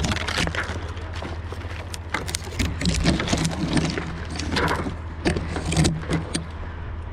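Metal climbing hardware jangling and clicking, with scraping and rubbing, as a tree climber moves along a limb. A steady low engine hum runs underneath.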